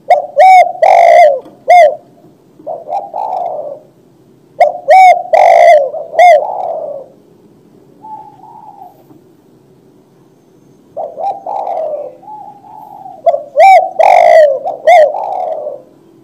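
Spotted dove (tekukur) cooing: three loud phrases of short coo notes, at the start, about five seconds in and near the end, with softer coos between them.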